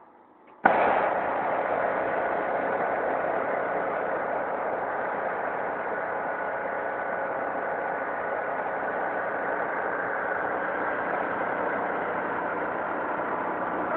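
Portable generator engine running steadily at constant speed, supplying power during a power cut; the sound starts abruptly about half a second in.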